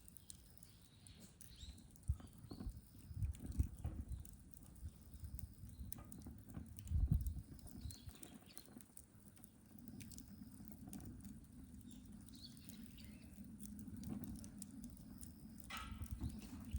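Birch firewood burning, with irregular sharp crackles and pops from the wood and a low steady rush of flame that grows from about the middle on. A few louder low thumps come in the first half.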